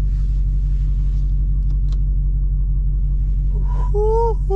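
Dodge SRT Hellcat's supercharged 6.2-litre V8 idling with a steady low rumble, no revving. Near the end a man whoops.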